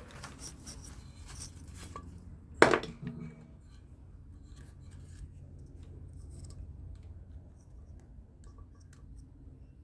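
Small clicks and taps of tools and motor parts being handled, with one sharp knock about two and a half seconds in.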